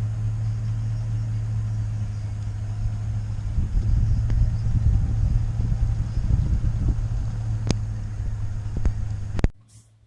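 Chevrolet Silverado pickup's engine idling with a steady low hum, with two sharp clicks near the end. The sound cuts off abruptly about nine and a half seconds in.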